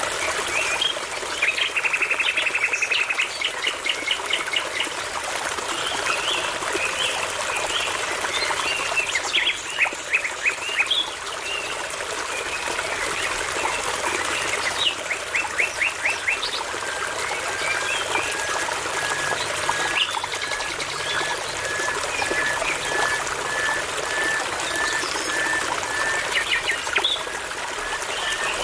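Songbirds singing over the steady rush of a babbling brook. There are quick trills and rapid runs of repeated notes, then from about halfway a steady series of short piping notes, about one and a half a second.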